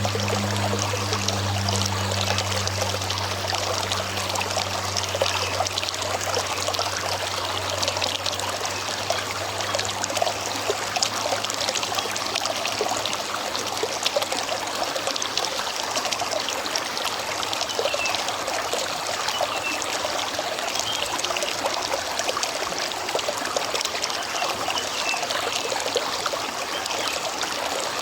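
River water running and trickling steadily, with a dense bubbling and splashing texture. A low hum underneath fades out over the first several seconds.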